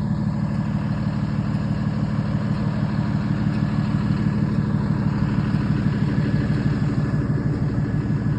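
A truck's engine running steadily at idle, a low even drone with no revving.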